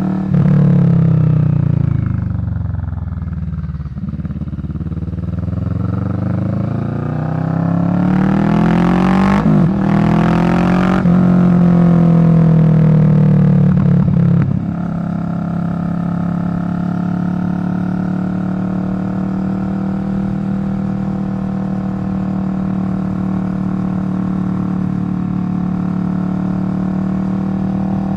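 Kawasaki Vulcan 650 parallel-twin engine running through a Delkevic slash-cut exhaust. The engine speed falls, climbs again with a couple of breaks, then drops about halfway through and holds steady.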